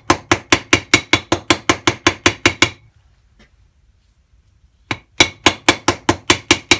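Flat-faced hammer lightly tapping a press-fit part into a motorcycle engine case, worked round in circles, in quick even taps about five a second. The taps stop for about two seconds in the middle, then resume. The hammer face is striking the case itself, the sign that the part is driven in flush.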